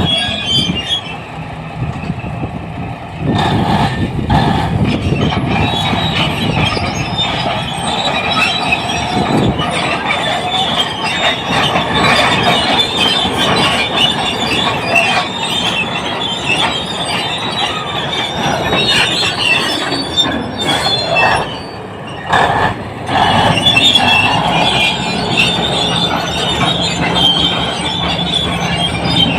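Crawler bulldozer working: its diesel engine running under load while the steel tracks squeal continuously, with a few knocks and clanks along the way.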